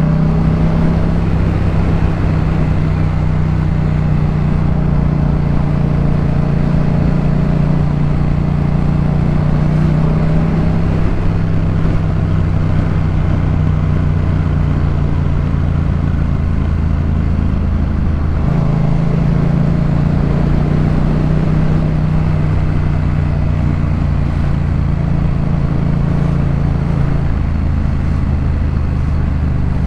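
Yamaha MT-07's parallel-twin engine through a Jeskap K4 full exhaust, running at steady revs under way. The revs dip briefly about two-thirds of the way through, then settle again.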